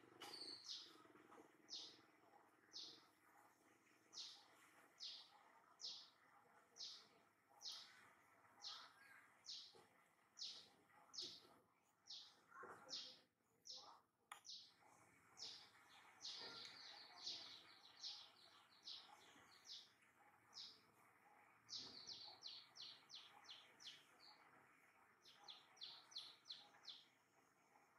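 Faint bird chirping: short high notes about once a second, breaking now and then into quicker runs of several notes.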